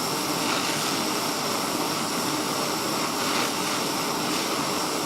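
Gas torch flame burning with a steady, even hiss as it heats the end of a steel clock mainspring to cherry red to anneal it.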